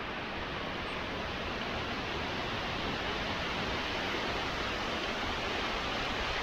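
Steady rushing of strong wind outdoors as Hurricane Ian approaches.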